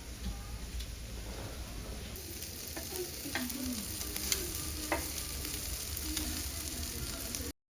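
Meat sizzling as it grills: a steady frying hiss that grows louder about two seconds in, with scattered sharp pops and crackles. It cuts off abruptly near the end.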